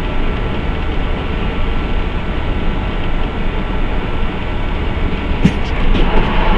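Steady rumble of a vehicle on the move, picked up by a dashcam, with a few short clicks about five and a half to six seconds in.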